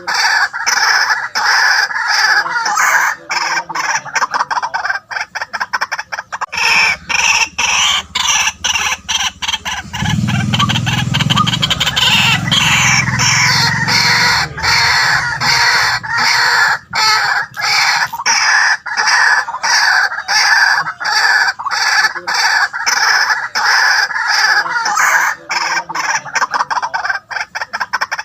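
White-breasted waterhen calling: a loud, unbroken run of rapidly repeated harsh notes, with a deeper sound underneath for a few seconds around the middle.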